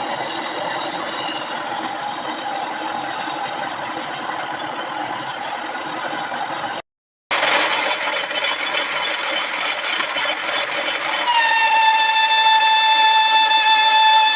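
Metal lathe cutting a steel part, a steady mechanical machining noise. It cuts out for a moment about seven seconds in. About four seconds later a loud, steady high-pitched squeal with overtones sets in and holds.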